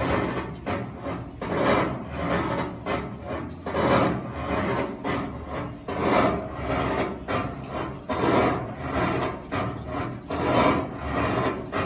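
GE washing machine agitating in its wash cycle with a harsh scraping, grinding noise from the bottom of the machine. The noise swells and fades about every two seconds with each agitation stroke.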